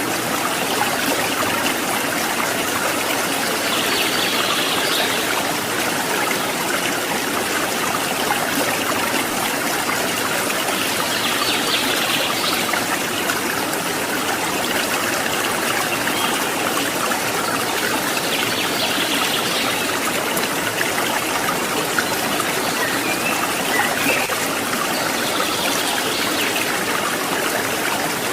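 Steady rushing of running water from a forest mountain stream. A faint higher-pitched sound comes and goes over it about every seven seconds.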